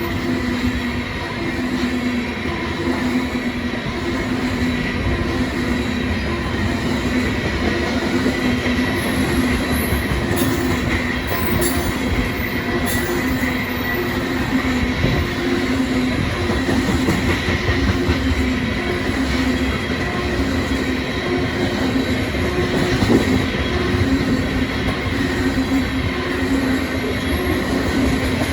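Freight train of ethanol tank cars rolling past: a steady rumble of steel wheels on rail, with a steady high wheel squeal over it.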